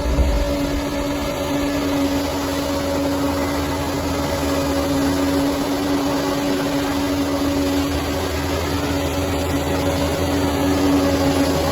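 Bulldozer's diesel engine running at a steady speed, a constant hum over a low rumble with no revving.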